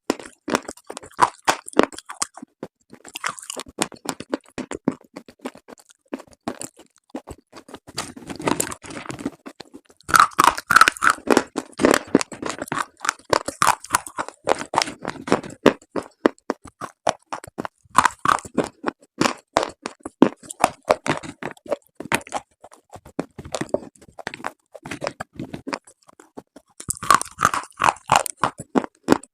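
Close-miked crunching of slate: dense runs of sharp cracks and snaps in bursts, with short pauses between them, like slate pieces being bitten and chewed.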